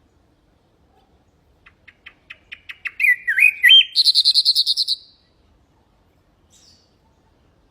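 Common nightingale singing one song phrase: after a pause, a run of short repeated notes that speeds up, a brief warble, then a loud, fast trill that stops about five seconds in.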